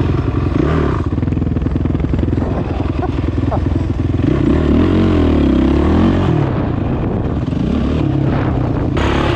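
A 450cc single-cylinder four-stroke off-road engine running under throttle. About halfway through its pitch rises and falls as it revs up and back down.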